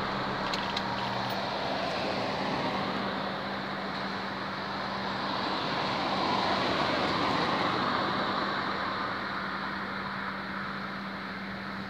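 A car engine idling, heard from inside the cabin as a steady low hum, with street traffic swelling and fading around it.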